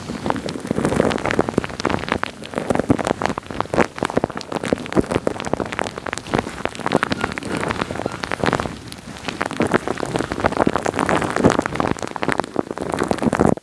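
Wet, sticky sounds made directly on a microphone: a dense, close crackle of rapid small clicks and pops, with a short lull partway through, stopping suddenly at the end.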